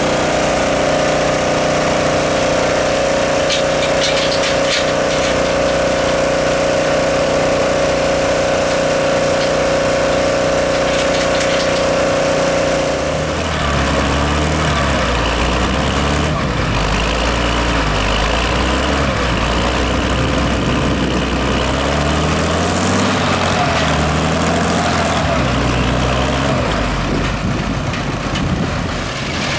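Heavy engine running steadily with a constant whine. About 13 seconds in, this gives way to an engine whose pitch rises and falls, as when the throttle is varied.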